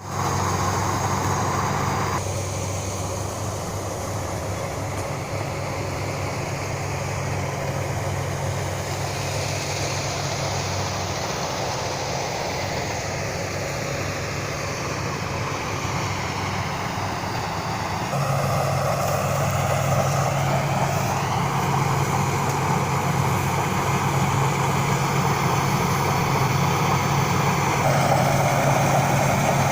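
Rice combine harvester's engine running steadily, its tone shifting abruptly about two seconds in and again a little past halfway.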